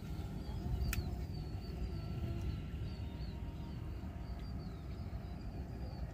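Faint, repeated short high chirps of small birds over a steady low rumble, with a single sharp click about a second in.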